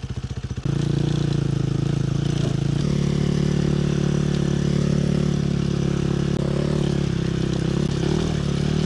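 Dirt bike engine running at low revs. It pulls harder about a second in and then holds a steady note, as it pushes a dead bike along.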